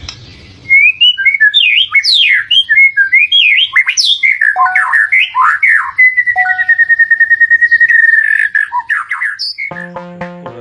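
Lovebird chattering in quick, sharp chirps and squawks, with one long rapid trill held for about two seconds in the middle. Near the end the bird stops and electronic music with a steady beat begins.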